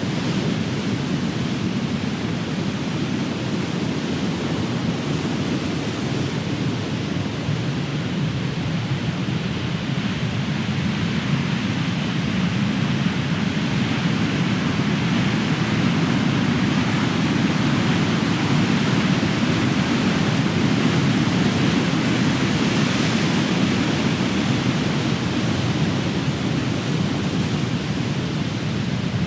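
Big ocean waves crashing on the shore in a continuous surf roar, swelling and easing slowly as the breakers come in.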